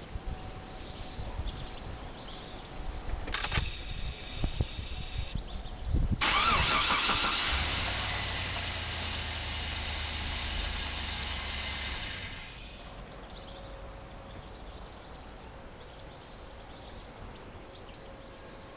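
2004 Chevy Tahoe V8 cranked and started about six seconds in, then left to run for about six seconds before it is shut off. This is a test start to check for oil pressure after the oil pressure sensor's loose connector was clipped back on.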